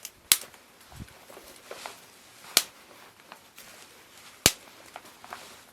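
Wood fire crackling: three sharp, loud pops about two seconds apart, with a few faint ticks between them.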